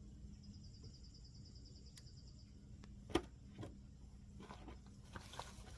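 Quiet campsite ambience with a faint, rapid high trill for about two seconds, then a sharp clink of camp cooking gear a little over three seconds in, a softer knock just after, and a few light clicks near the end.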